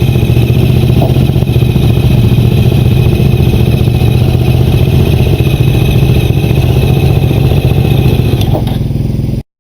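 Motorcycle engine running at a steady speed on the move, loud and even, cutting off suddenly near the end.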